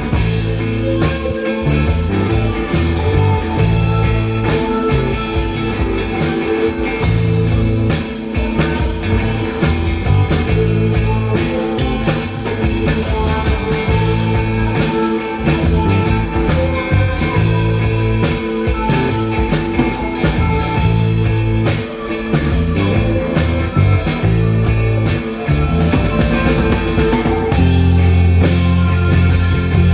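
Live rock band playing an instrumental passage: electric guitar, bass and drum kit, with no singing.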